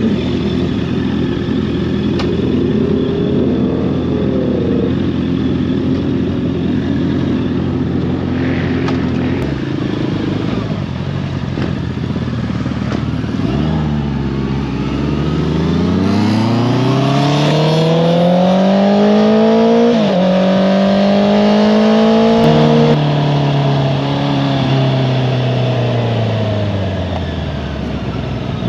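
Honda CBR650R's inline-four engine with an Akrapovič exhaust, running steadily at first, then accelerating hard from about halfway with its pitch climbing. There is a quick upshift, more climbing, and then the throttle closes and the pitch falls away as the bike slows.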